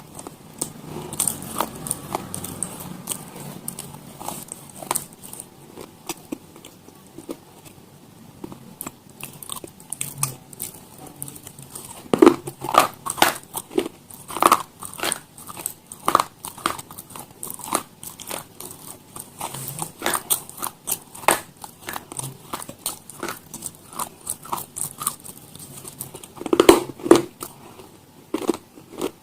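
Crunchy food being bitten and chewed close to the microphone, an irregular run of crisp crunches that turn louder and denser about twelve seconds in and again near the end.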